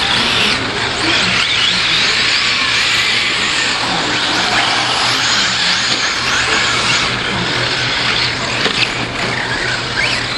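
Several radio-controlled 4wd short course trucks racing, their motors whining with many rising and falling pitches as they accelerate and brake around the track, over a steady low hum.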